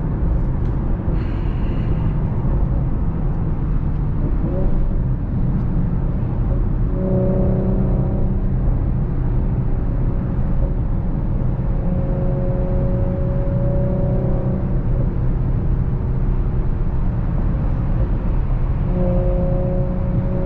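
Audi SQ5's engine and AWE exhaust (non-resonated downpipes and Touring catback) heard from inside the cabin while driving, over steady road rumble. A low humming drone from the exhaust swells in a few times, about seven seconds in, again in the middle, and near the end.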